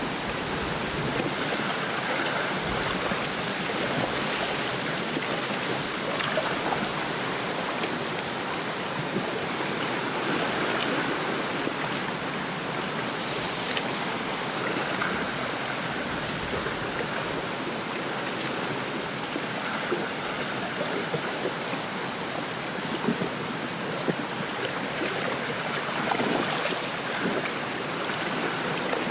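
Wind rushing steadily through a lakeside reed bed, with small waves lapping at the shore. A stronger gust hisses briefly about halfway through, and a few soft ticks come near the end.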